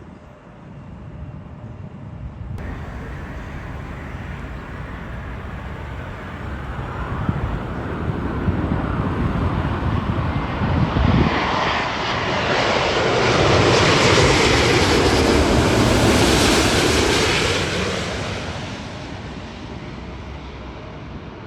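Jet airliner passing by: the engine noise builds for about ten seconds, is loudest about two-thirds of the way through, then fades away.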